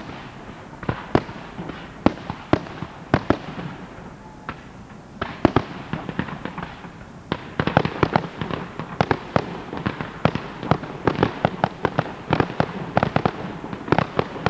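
Fireworks display: a rapid, irregular string of bangs from aerial shells and cakes bursting. The bangs thin out briefly, then come thick and fast from about seven seconds in.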